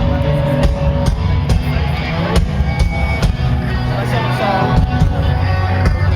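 Loud amplified live rock music: a band playing with a steady drum beat and heavy bass, heard from among an open-air concert crowd.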